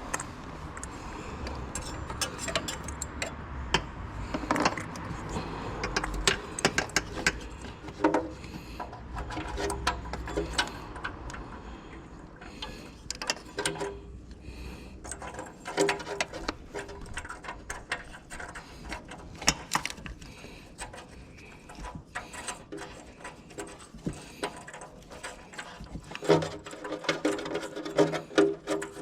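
Hand tools at work on car parts: irregular clicks, taps and metallic clinks, like a socket ratchet and metal parts being handled, with a few short ringing clanks near the end.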